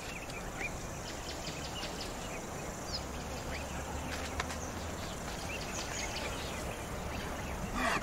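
Outdoor bush ambience: a steady background hiss with scattered short, high bird chirps, and a faint low hum in the middle.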